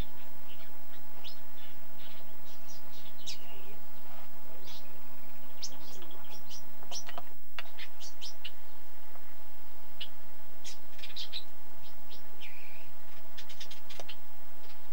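Small birds chirping: many short, high chirps and tweets from several birds, over a steady hum.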